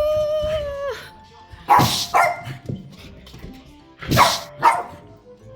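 A dog barking: a long, high whine fading about a second in, then two quick double barks, at about two seconds and four seconds in.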